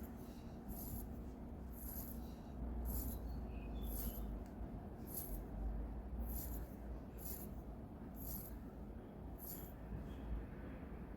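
Crown of a Certina day-date chronograph mechanical watch being turned by hand, giving a regular run of small, sharp clicks about every 0.7 seconds over a low rumble.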